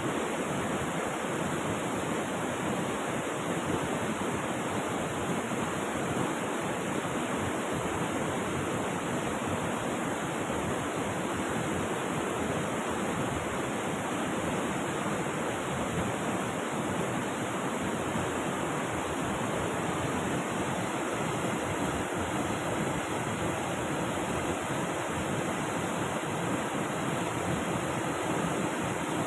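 Steady rush of flowing river water, an even wash of water noise without breaks or changes.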